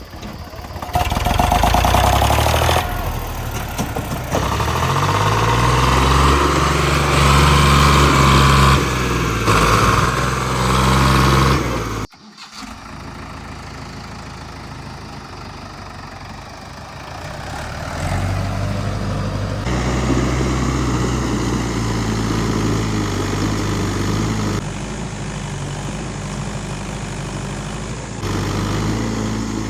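Diesel tractor engine working hard, its pitch rising and falling as it revs; about twelve seconds in the sound cuts off abruptly. A steadier engine then runs on, quieter at first and louder from the middle on.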